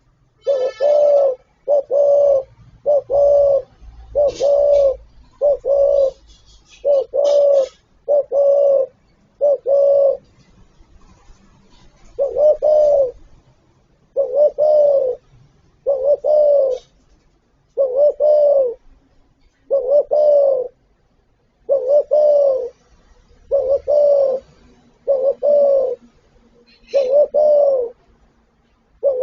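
Spotted dove cooing: a long series of short, low coo notes, about one a second, with a brief pause about eleven seconds in.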